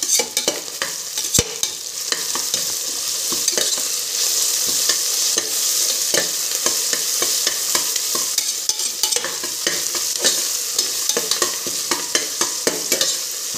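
Onions, green chillies and ginger-garlic paste sizzling in hot oil in a pressure cooker, with a steady hiss and frequent clicks and scrapes of a metal spatula against the pot as it is stirred. The paste is being fried off to lose its raw smell.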